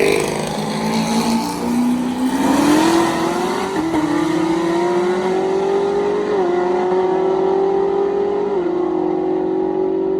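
Supercharged ZL1 Camaro V8 at full throttle during a roll-race pass. Its pitch climbs steadily, then drops back three times as the automatic transmission upshifts.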